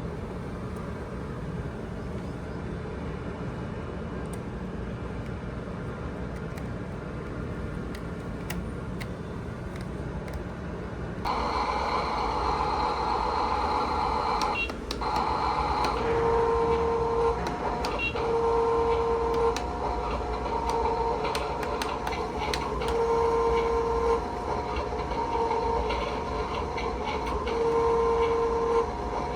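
Small electric motors and gears of an RC cement mixer truck running. About eleven seconds in the sound changes and gets louder, with electronic tones that switch on and off about once a second.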